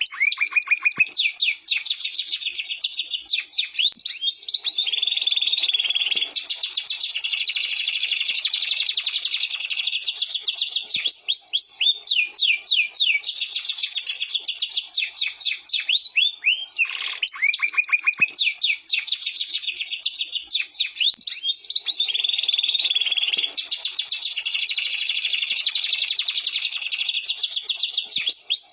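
Domestic canary singing a long, unbroken song of rapid high trills: fast runs of repeated notes that alternate with series of quick sweeping notes.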